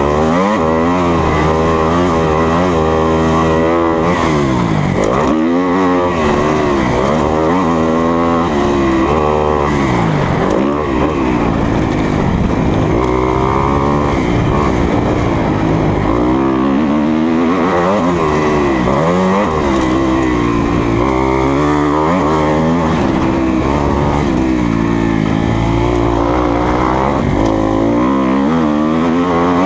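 2020 Kawasaki KX250F's single-cylinder four-stroke engine being ridden hard, revving up and backing off over and over, its pitch climbing and dropping every second or two.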